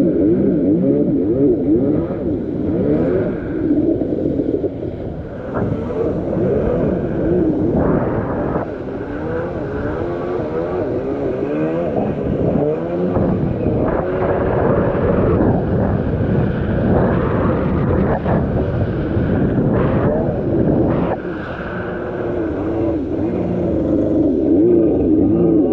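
Kawasaki X2 650's two-stroke twin engine running, its speed rising and falling over and over.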